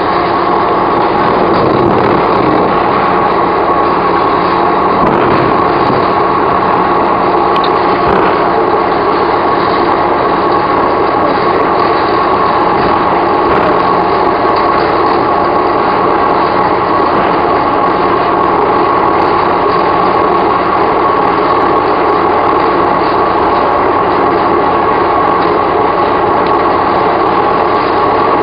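Electric commuter train running, a steady even rumble of wheels on rail and running gear with a faint steady hum through it.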